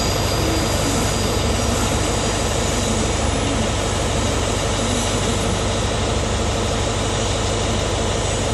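Diesel train engine running steadily at idle while standing, a low hum under a thin, constant high-pitched whine.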